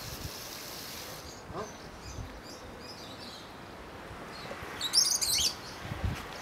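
Birds chirping in short high-pitched bursts, loudest about five seconds in, over a faint steady background hiss.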